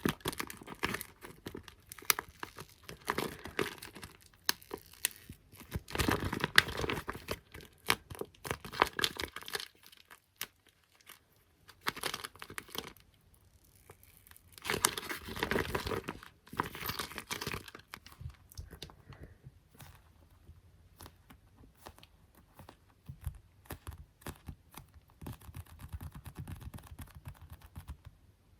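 Close-miked ASMR sticky tapping: fingers patting and peeling off tacky surfaces in bursts of crinkly, crackling sound. There are short pauses about ten and thirteen seconds in, and the taps turn lighter and sparser for the last ten seconds.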